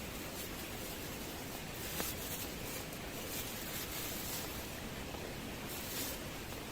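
Steady hiss of heavy rain, with a few brief rustles and a sharp click about two seconds in.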